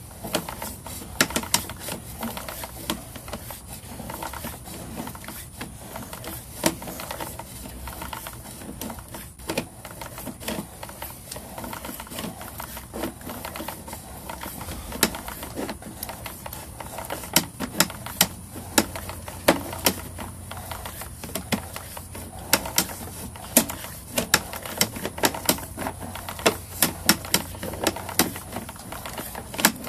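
Sewer inspection camera gear being handled: the push cable and reel clicking and rattling in irregular sharp ticks that come thicker in the second half, over a low steady hum.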